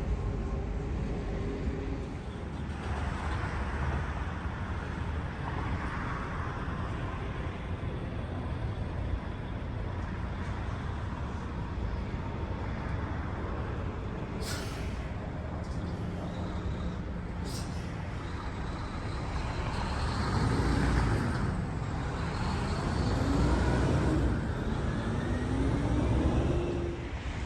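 Airliner engines rumbling steadily. In the last few seconds the engine tones fall and then rise in pitch as the aircraft passes, and the sound grows louder. Two short clicks come in the middle.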